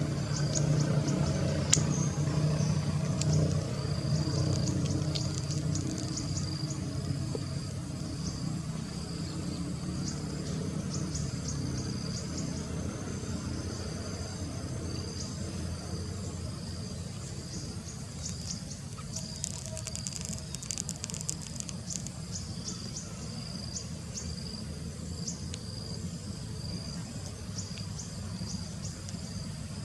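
Insects, likely crickets, chirping in short repeated pulses over a low steady rumble, with a dense buzzing trill about two-thirds of the way through.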